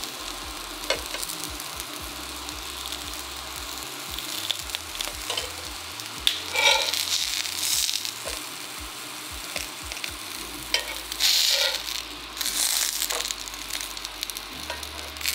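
Potato-stuffed bell peppers sizzling in an oiled cast iron pan. A metal spatula scrapes and clicks against the pan as the peppers are turned onto their stuffed sides. The sizzle swells louder a few times, most strongly in the second half.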